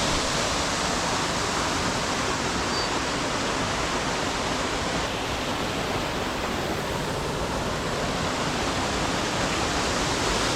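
Waterfall on a mountain creek: a steady, even rush of falling water.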